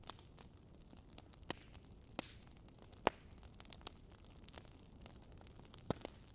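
Burning firewood crackling: irregular sharp pops over a low steady hiss, the loudest pop about three seconds in.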